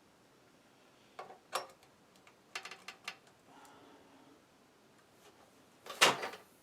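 Scattered clicks and knocks of small objects being handled on a workbench, with a quick run of ticks in the middle and the loudest sharp knock near the end.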